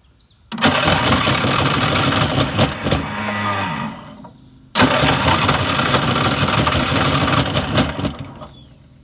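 Riding lawn mower's small engine being cranked by its electric starter, twice, each try three to four seconds long and cut off abruptly, without the engine staying running. The starter is fed through jumper wires that bypass a dead starter solenoid.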